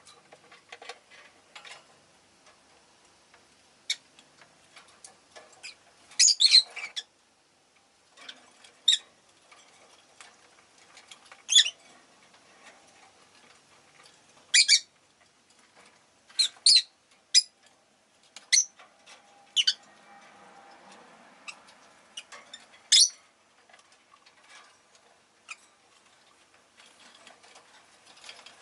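Rosy-faced lovebirds giving short, sharp, high-pitched chirps and squawks at irregular intervals, the loudest a quick cluster about six seconds in.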